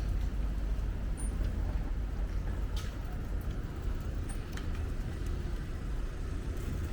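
City street ambience: a steady low rumble of road traffic, with a few light clicks and a couple of brief high chirps.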